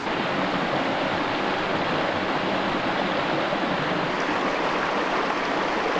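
A mountain creek running steadily over rocks: an even rush of water.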